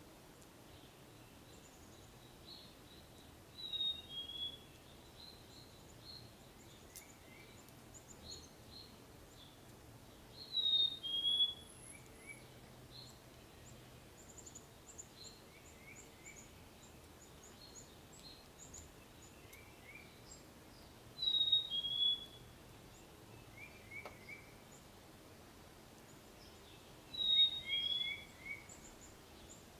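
A songbird repeating a clear two-note whistled song, a high note then a slightly lower one, four times, with faint short chirps from other birds in between.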